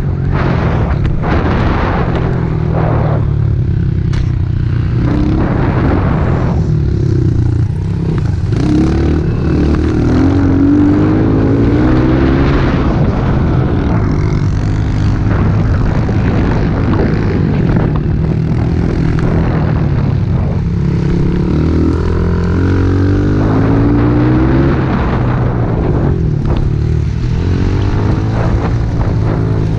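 Small four-stroke pit bike engine running hard, revving up and dropping back again and again as the bike is ridden and shifted through the gears.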